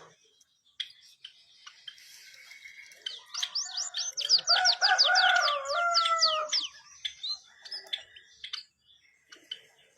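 White-headed munia calling and singing. Midway, a fast run of about fifteen high sweeping notes lasts some three seconds, over a lower drawn-out wavering call. Scattered short chirps and clicks come before and after it.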